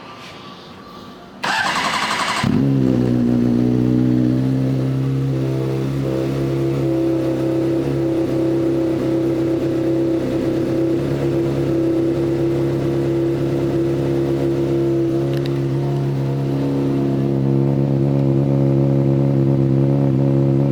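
Honda CBR600RR's inline-four engine turned over by the electric starter for about a second, then catching and settling into a steady idle through its aftermarket Two Brothers exhaust.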